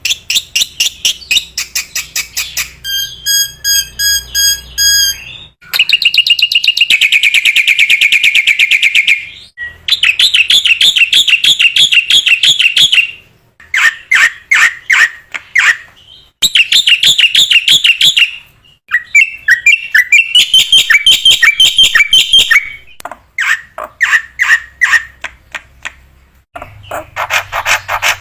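Black-winged myna (jalak putih) singing loudly in full song: long runs of rapid chattering notes and trills, broken by a held whistle about three seconds in, with short pauses between phrases.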